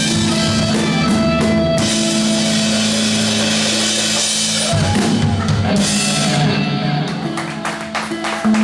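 Live rock band playing an original song, drum kit and guitar; about two-thirds through the bright high wash falls away and a few separate sharp hits follow near the end.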